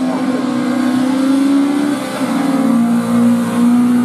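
Rally car engine running at high revs under hard acceleration, loud and strained, with a quick drop in pitch about two seconds in as it shifts up a gear, then pulling hard again.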